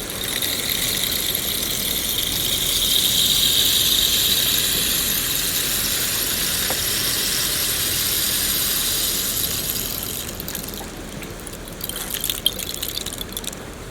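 Steady hiss of falling rain that swells over the first few seconds. After about ten seconds it eases into scattered, crackling drops.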